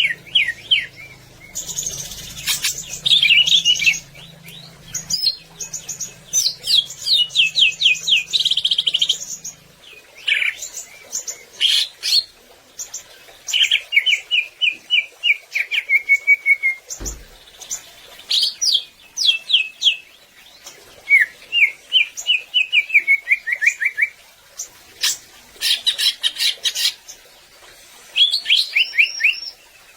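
Cucak ijo (greater green leafbird) singing in repeated phrases of rapid, sharp chirps and trills, each lasting a second or two with short pauses between them. A low hum lies under the first third, and a single dull thump falls about halfway.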